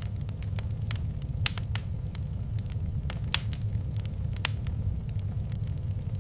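Wood fire crackling in a fireplace, with irregular sharp pops over a steady low rumble; the loudest pops come about a second and a half in, past the middle, and near the four-and-a-half-second mark.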